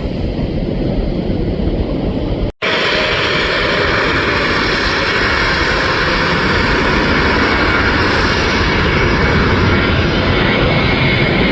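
Boeing 737 jet engines running loud and steady as the airliner passes. Before that there is a low rumble, and the sound cuts out for an instant about two and a half seconds in.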